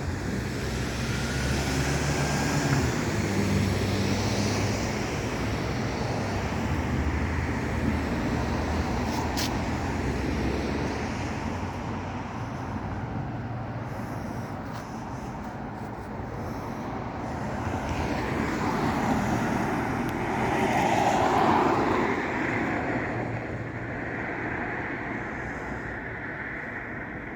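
Road traffic: motor vehicles running past, with a low engine rumble in the first half and a vehicle swelling louder and fading about twenty seconds in.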